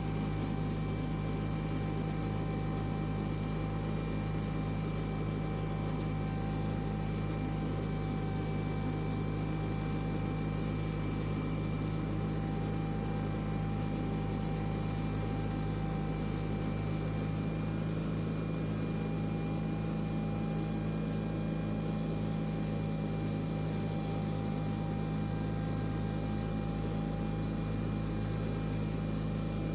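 John Deere 318 garden tractor's Onan two-cylinder engine running at a steady speed while mulching leaves, a constant low drone with a steady thin whine above it.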